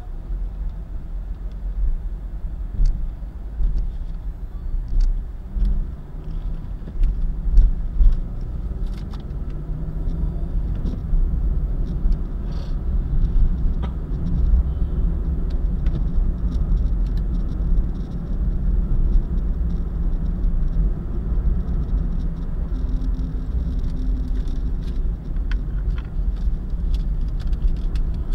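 Car travelling at speed on an expressway: a steady low rumble of road and engine noise, with occasional faint clicks and rattles.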